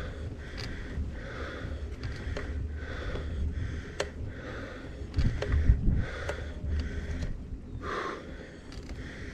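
A cyclist's hard, rhythmic breathing, about a breath a second, over a steady low rumble of wind and tyres on the mic. There are a few sharp knocks from the bike and a louder jolt about five to six seconds in.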